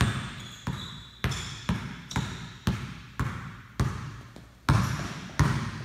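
A basketball being dribbled on a hardwood gym floor, about two bounces a second with a short pause near the end. Each bounce echoes around the hall.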